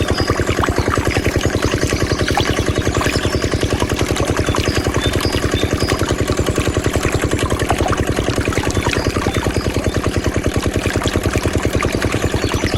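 Small diesel engine driving a water pump, running at a steady speed with a fast, even chugging.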